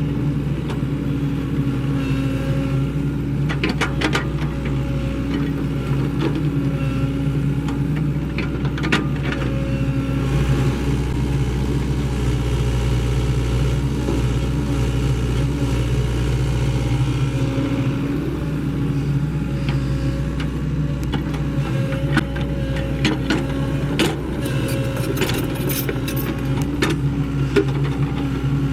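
Sany SY75C excavator's diesel engine running steadily as the machine works, with scattered knocks and scrapes, several of them close together in the last few seconds.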